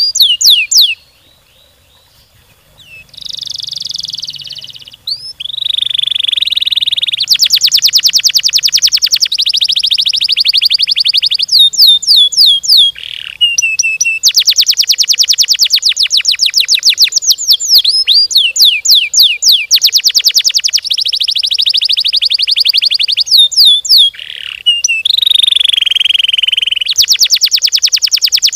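Domestic canary singing long, very fast trills of tightly repeated notes, the rolling song prized in a well-singing canary. Several seconds of trilling alternate with warbled and buzzy phrases, with a brief pause about a second in.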